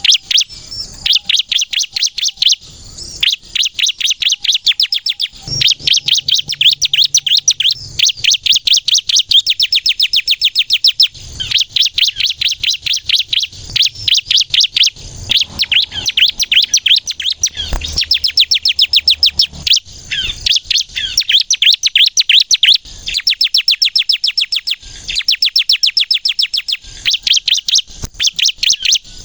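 Bar-winged prinia (ciblek kristal) singing a rapid, high-pitched chattering song. The notes come in fast-repeated bursts of a few seconds each, with brief pauses between them.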